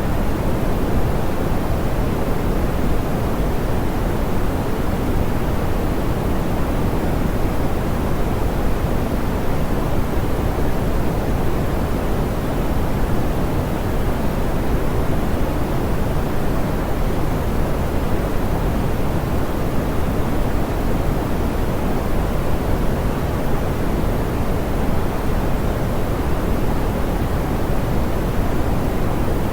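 Steady, smoothed pink noise: an even hiss weighted toward the low end, with no events or changes.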